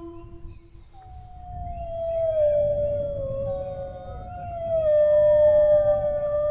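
Dogs howling: two long howls that slowly fall in pitch, the second starting before the first has ended.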